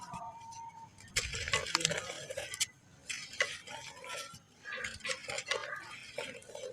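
Pure black sand crumbling with water: gritty crackles and small clicks in several bursts, with short lulls between them.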